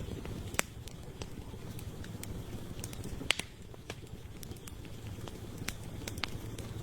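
Campfire crackling: a steady low rumble of burning wood with scattered sharp pops and snaps, two louder pops about half a second and three seconds in.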